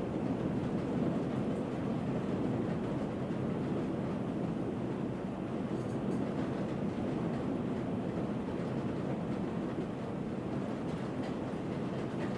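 Distant rolling thunder: a long, continuous low rumble that eases slightly toward the end.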